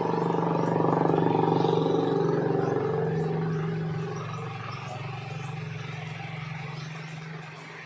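A vehicle's engine hum, loudest early on and fading away about four seconds in, over a faint steady hiss.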